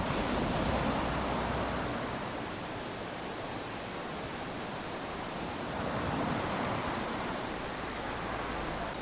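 Small waves washing up onto a sandy beach as a steady hiss of surf, swelling twice: once near the start and again about six seconds in.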